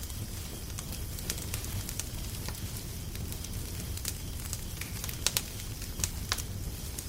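Wood fire crackling, with irregular sharp pops over a steady low rumble; two louder pops come close together a little past five seconds in.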